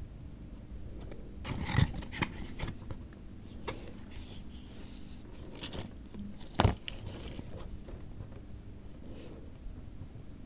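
Bench work on a circuit board with small tools and a soldering iron: a few light scrapes and taps, the sharpest about two seconds in and again about two-thirds of the way through, over a faint steady hum.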